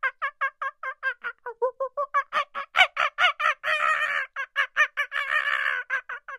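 Young Barbary macaque chattering: a fast run of short, sharp calls, about six a second, with two longer, harsher calls in the middle.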